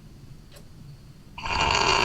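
A woman's loud snore starting about one and a half seconds in, after a quiet pause between breaths.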